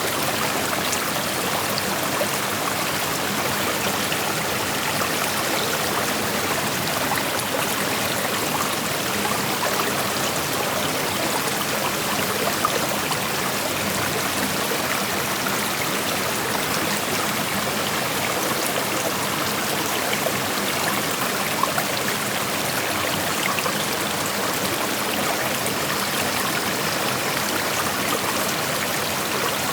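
Shallow creek water flowing over rocks: a steady rushing sound with small splashes and trickles scattered through it.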